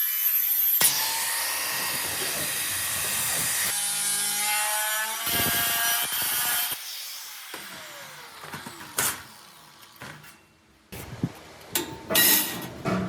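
Power tools cutting and grinding in short, abruptly cut stretches. A little past halfway one tool winds down with a falling whine, followed by scattered sharp knocks.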